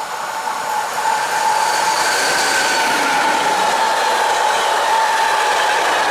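Freight train of double-deck car-carrier wagons, hauled by a DB Cargo class 189 electric locomotive, passing close at speed. The noise grows over the first second and a half, then holds loud and steady, with a steady high whine through it.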